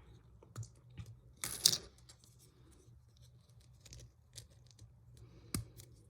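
LEGO plastic pieces being handled and pressed together: scattered small clicks and taps, a brief louder scratchy rasp about one and a half seconds in, and a sharp click near the end.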